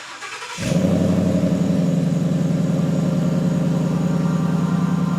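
Ford Mustang GT's V8 engine running steadily, starting suddenly about half a second in and holding an even level.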